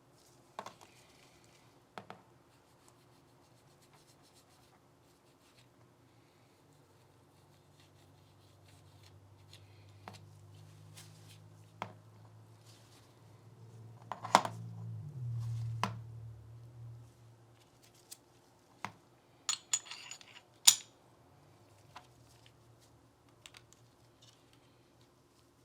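Glock 19 pistol parts and tools being handled on a bench: scattered sharp clicks and light scraping, with the loudest clicks about halfway through and again near the end. A low hum swells in and fades around the middle.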